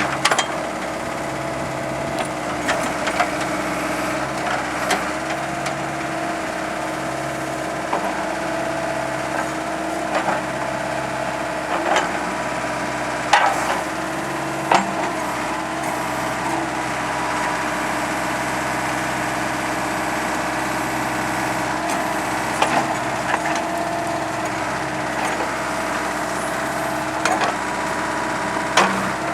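Ford 555D loader backhoe's diesel engine running steadily, with irregular sharp clanks and knocks from the working machine scattered through, the loudest about halfway.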